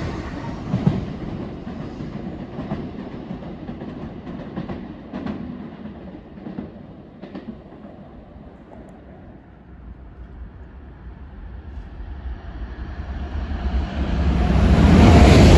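Joetsu Shinkansen train noise fading away with scattered wheel clicks over the rails. Near the end the rushing noise of another train rises steeply and grows loud as it approaches.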